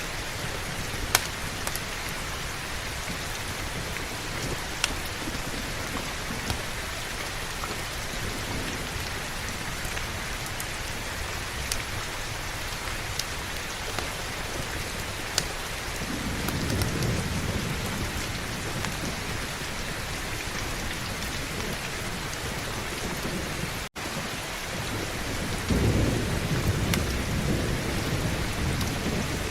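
Steady heavy rain, with two low rolls of thunder, one about two-thirds of the way through and a louder one near the end. A few sharp pops of a crackling fire stand out above the rain, and the sound cuts out for a split second shortly before the last thunder.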